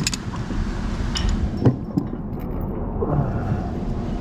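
Steady low machinery rumble with a few metallic clinks and knocks from steel parts and bolt hardware being handled. One sharp clank comes a little before two seconds in.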